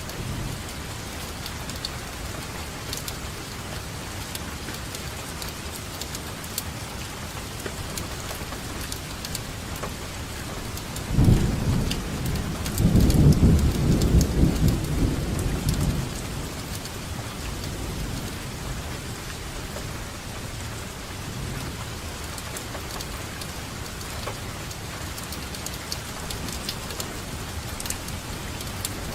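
Steady rainfall with scattered drop ticks. About eleven seconds in, thunder rumbles for around five seconds and is the loudest thing heard.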